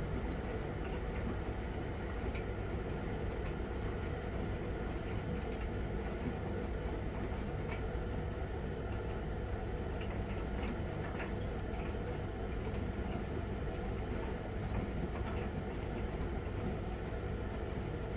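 Miele Novotronic W921 front-loading washing machine running steadily through its wash, with a low even hum and a few light clicks.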